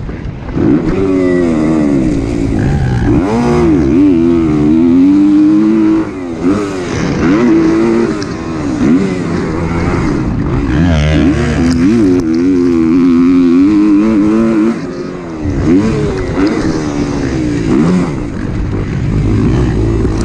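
Motocross bike's four-stroke 250 single-cylinder engine, a Kawasaki KX250, ridden hard around a track. It revs up and backs off over and over, its pitch climbing and falling with the throttle, and drops away briefly a few times as the throttle shuts.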